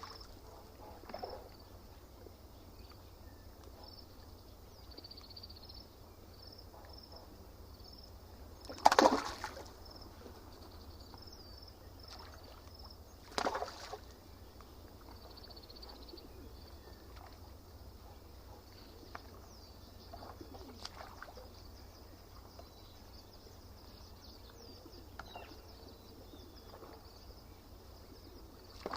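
Lake water splashing at the shore, with two louder splashes about a third and half of the way through and a few smaller ones later, over a steady low hum. Birds call throughout, a short high chirp repeating rapidly in the first half.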